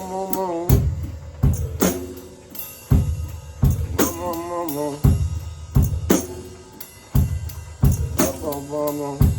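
Drum kit played in an improvised groove, with heavy bass-drum and snare hits under ringing cymbals. Three short, wavering wordless vocal notes come near the start, about four seconds in and shortly before the end.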